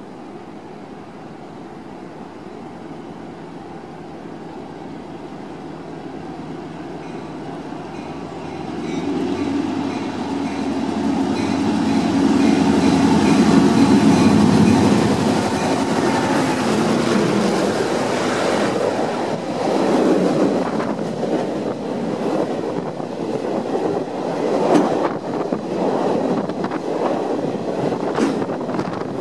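Diesel-hauled freight train approaching and passing close by. The locomotive's engine grows louder and is loudest about halfway through, then the freight cars roll past with an uneven clatter of wheels on the rails.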